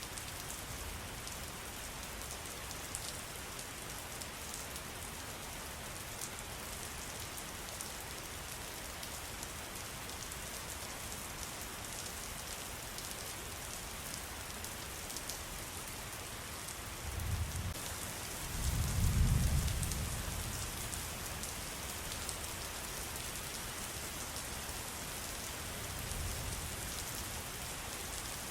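Steady rain with a dense patter of drops. A low rumble swells up about two-thirds of the way through, and a fainter one follows near the end.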